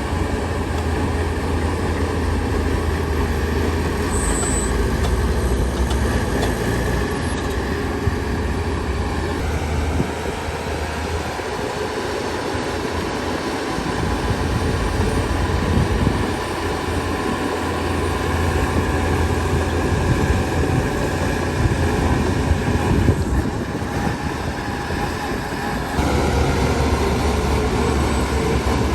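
Heavy diesel engine of a crawler bulldozer running under working load, with a steady mechanical rumble. Its low engine note changes and drops away briefly a few times as the load or throttle shifts.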